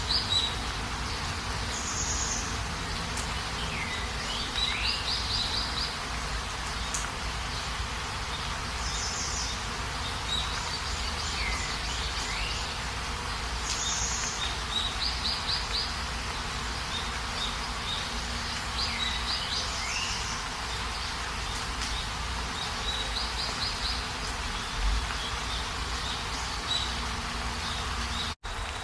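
Steady rain with a bird singing a short repeated phrase about every five seconds: a downward-sliding whistle and a quick run of high notes. The sound cuts out for a moment near the end.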